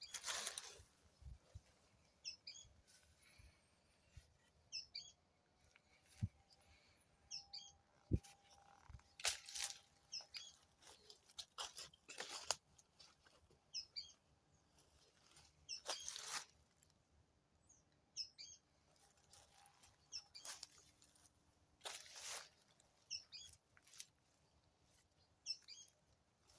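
A bird repeating a short call of a few quick high notes every two to three seconds. Several louder scraping or crunching noises come every few seconds in between.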